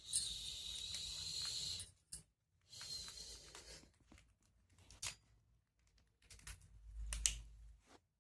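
A parrot making raspy, hissing sounds in bursts, the longest about two seconds and another about a second, with sharp clicks in between.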